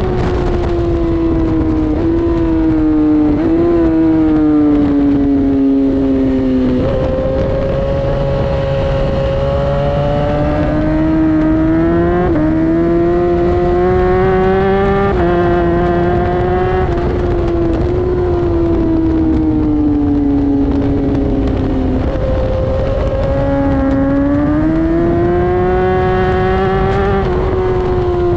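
Inline-four superbike engine at full throttle on track. The pitch climbs through each gear and drops sharply at each gear change, with steady wind and road rush underneath.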